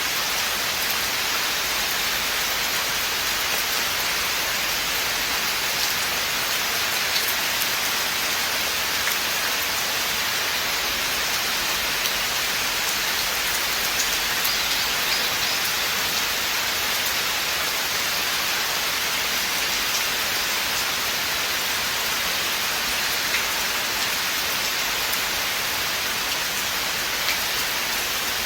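Steady rain falling in a forest, an even hiss with scattered drops ticking on leaves and surfaces.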